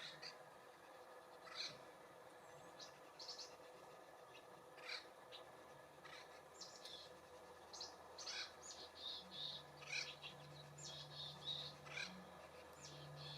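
Faint, scattered chirps and call notes of small songbirds, coming more often in the second half. A faint low steady hum joins in about two-thirds of the way through.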